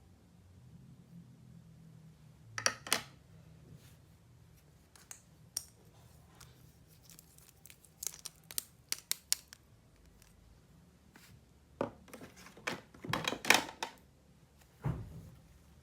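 Toy packaging and plastic toy pieces being handled during an unboxing. Scattered sharp clicks and short crinkling, cutting or tearing bursts come in clusters, busiest and loudest near the end.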